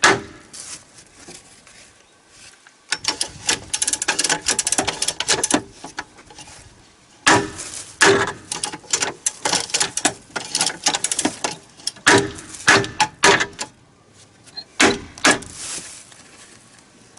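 Metal hand tools and bolts clinking and rattling in quick irregular runs while bolts are fastened on a snowcat's rubber crawler track joint.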